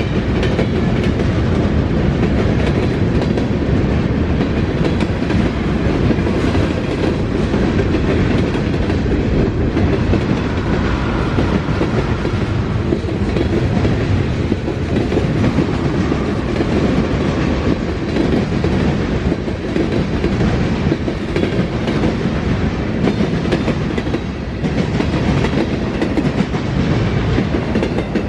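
Freight cars of a passing Norfolk Southern freight train rolling by, loud and steady, with wheels clacking over the rails.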